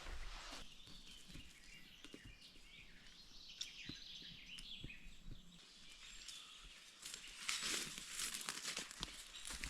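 Quiet outdoor ambience with faint bird chirps, then a louder crackling rustle starting about three quarters of the way in.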